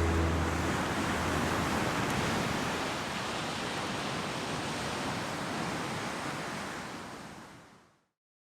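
Ocean surf: a steady rush of sea waves with no tones, slowly fading out to silence near the end.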